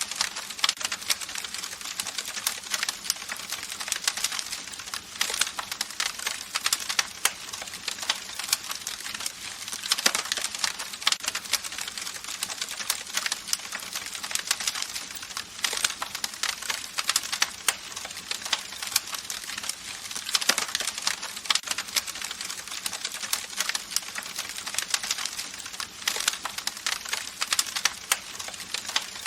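Campfire crackling: a dense, irregular run of sharp pops and snaps over a soft hiss, with louder clusters of pops every few seconds.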